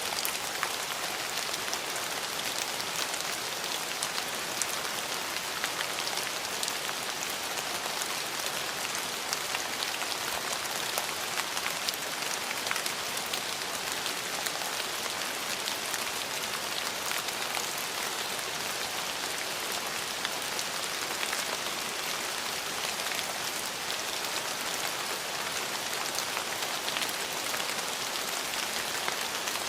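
Steady rain falling, a constant hiss with many separate drops pattering on surfaces.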